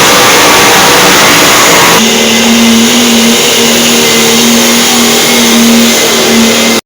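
Pulling truck's engine running hard at high revs, very loud. About two seconds in it settles into a steady, even drone, and the sound cuts off suddenly near the end.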